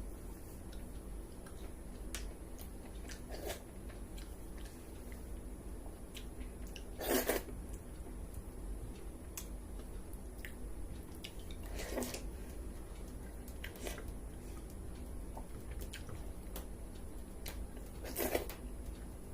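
Close-miked eating of pakhala bhata, rice soaked in water, with side dishes: wet chewing and small clicks, with three louder, longer mouth sounds about 7, 12 and 18 seconds in.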